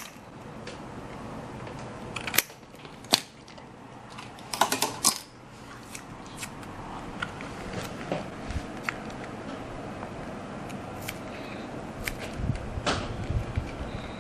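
Scattered small clicks and taps of hand work on a model warship, with a quick cluster of taps a little under five seconds in, over a low steady background hum.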